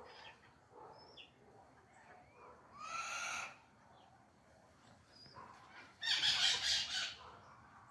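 Birds calling: faint short chirps, one clear arching call about three seconds in, and a louder harsh, raspy call lasting about a second near the end.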